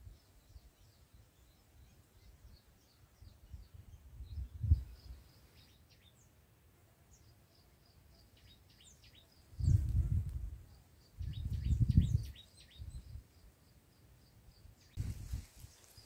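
Small birds chirping in series of short, thin, high notes, thickest from about 3 to 6 s and 8 to 12 s in. Several bursts of low rumble cut in, loudest a little before and around the 12-second mark.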